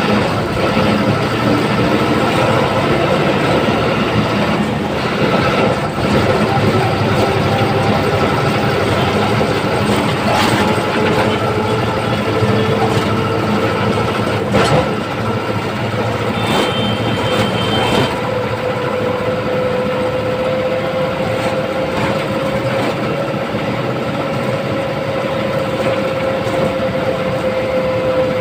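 Ashok Leyland diesel city bus engine pulling under load up a flyover climb: a steady engine roar with a whine that rises slightly past the middle, and a few brief rattles and knocks.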